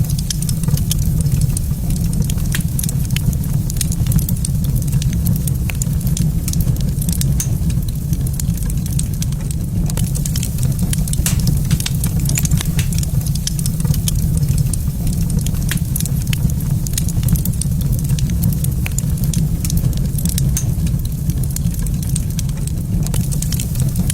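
Wood fire in a fireplace crackling and popping, with a steady low rumble underneath.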